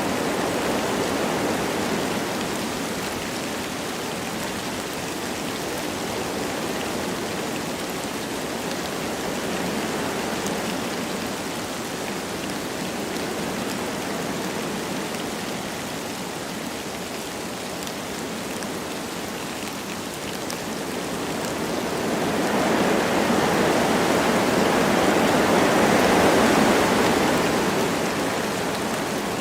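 Wind blowing through forest trees with light rain falling, a steady rushing that swells in a long gust about three quarters of the way through, then eases.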